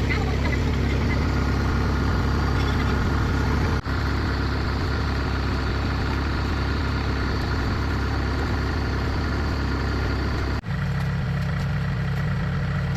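Kubota DC70 Plus rice combine harvester's diesel engine running steadily under load, with two brief dropouts; after the second, about three-quarters of the way through, the sound turns lower and heavier.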